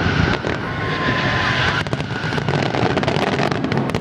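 Fireworks display going off: a continuous rumble of bursts and crackle, with thin whistling tones in the first half and a cluster of sharp cracks near the end.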